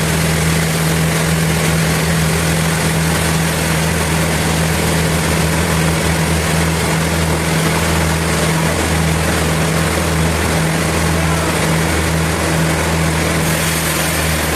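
Sawmill machinery running with a steady low hum under a constant hiss.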